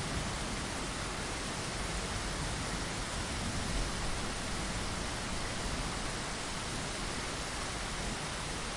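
Steady rainfall against a window, an even, unbroken hiss with no distinct drops standing out.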